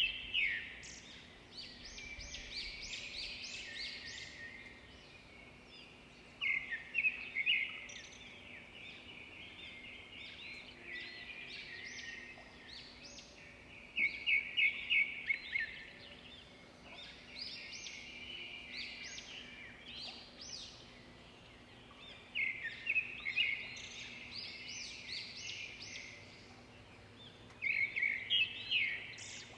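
Small songbirds chirping and twittering in short, quick bursts that come again every few seconds, over a faint steady outdoor background.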